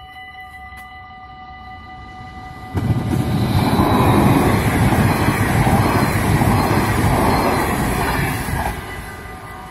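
NS double-deck electric passenger train passing close by at a level crossing. Its rumble and wheel noise start suddenly about three seconds in and drop away about six seconds later. Under it, the crossing's warning bell gives a steady ringing tone.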